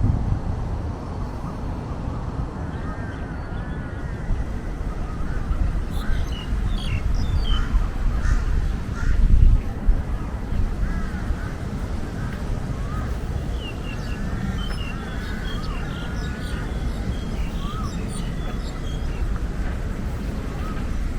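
Park birds calling: short arching calls repeated in runs, with higher chirps scattered among them, over a steady low outdoor rumble that swells briefly about nine seconds in.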